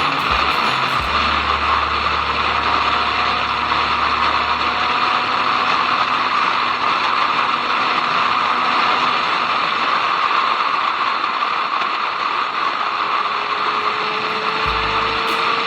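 Motorcycle riding at speed: a steady rush of wind and engine noise, with the engine note rising slightly near the end.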